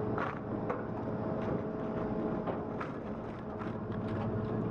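Wood chipper running steadily with a constant hum, and scattered short knocks and cracks, as of material being fed and broken up.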